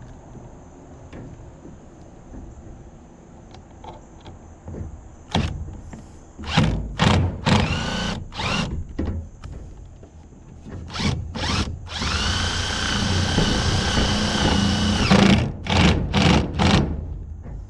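Power drill driving screws to mount a bathroom exhaust fan: several short bursts of the motor, then one steady run of about three seconds, then a few more short bursts near the end.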